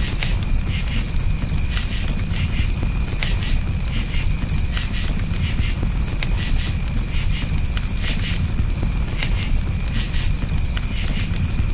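Crickets chirping in a steady pulsing trill over a campfire, with irregular sharp crackles and pops from the burning wood and a low steady rumble beneath.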